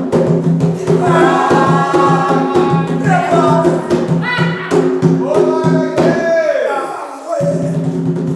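Devotional singing with instrumental backing: voices hold and bend sung lines over a steady sustained accompaniment. About six seconds in, one voice glides downward, and the sound briefly thins before the music resumes.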